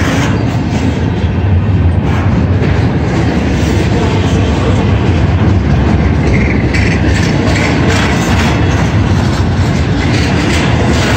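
Freight train cars rolling past a grade crossing at close range: a loud, steady low rumble with wheels clattering over the rails.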